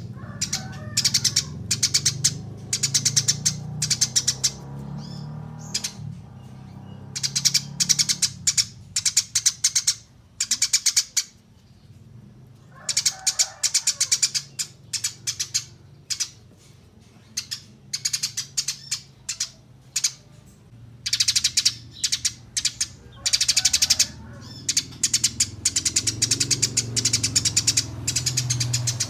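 Eurasian tree sparrows chirping: fast runs of sharp, high chirps in bursts of a second or two with short gaps between, over a low steady hum.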